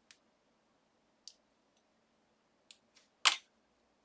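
Small clicks and taps from a thin metal cutting die and cut paper being handled as the die-cut piece is worked out of the die, with a single louder sharp clack about three seconds in.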